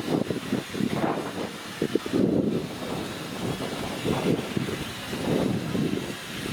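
A train running, heard as a steady rumble with uneven surges.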